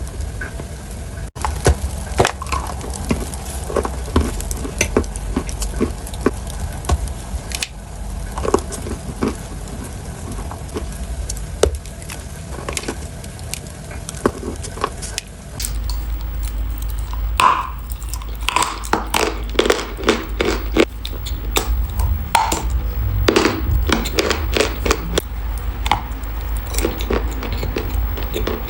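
Kitchen handling sounds: a run of sharp clicks and taps of utensils against dishes, changing in character about sixteen seconds in.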